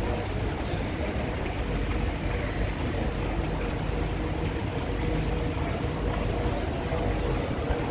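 Steady hum of a Kawasaki-CRRC C151A MRT train standing at the platform, with faint steady tones over the station's background noise.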